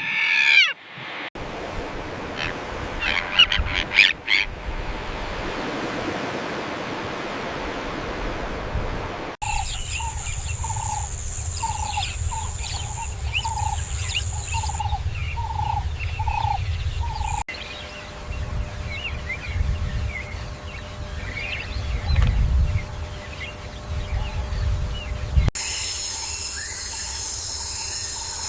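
Wild-animal nature sounds in several abruptly cut segments. There are scattered bird chirps over a low rumble of wind. About a third of the way in, a short call repeats roughly twice a second over a steady high insect drone, and near the end a dense steady chorus of insects comes in.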